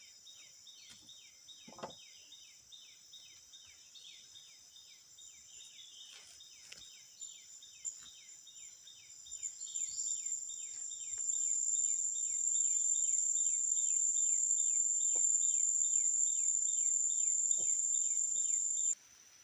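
Insects calling: a rhythmic chirp repeating about two and a half times a second, joined by a high, steady buzzing drone that swells about ten seconds in and gets loud before cutting off suddenly near the end. A few faint knocks are heard in between.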